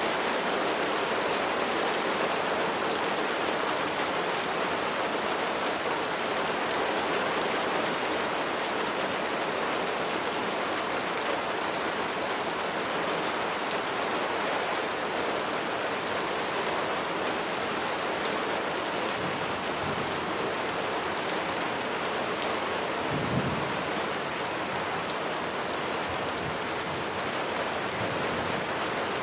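Steady rain falling on a surface, with fine ticks of individual drops throughout. A single brief low thump comes once, late on.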